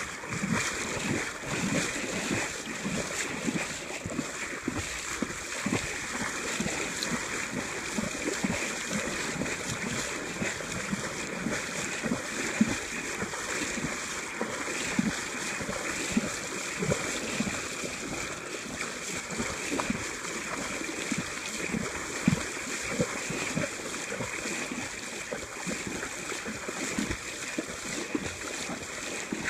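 Fast river current rushing and sloshing around people wading through it, with irregular low splashes and wind buffeting the microphone.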